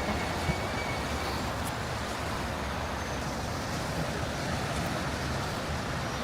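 Steady rumble of heavy truck engines running, mixed with roadway traffic noise.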